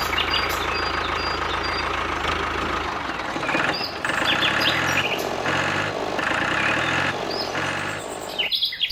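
Small engine running with a steady throb, then a pulsing rhythm, with birds chirping over it.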